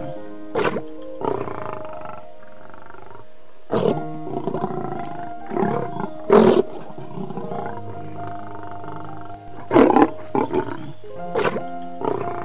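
Lioness growling and giving short roars, several separate bursts with the loudest about six and ten seconds in, over steady background music.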